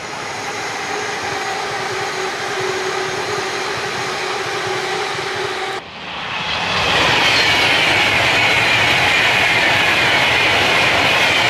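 A train passing close by on the railway line. It starts as a steady hum with a couple of held tones, then after a sudden break about six seconds in, a louder rushing of wheels on rails with a whine that falls slowly in pitch.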